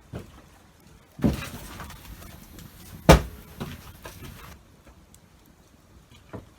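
A few knocks with a stretch of rustling handling noise, broken by one sharp knock or crack about three seconds in.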